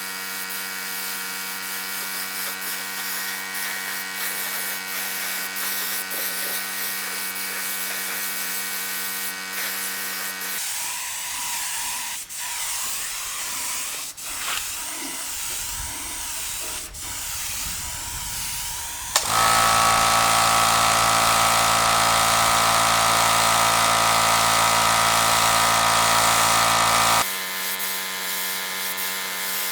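Small electric power tools running steadily in several stretches, with a noisier passage of scattered clicks in the middle. A louder, higher steady run starts suddenly about two-thirds of the way in and cuts off shortly before the end.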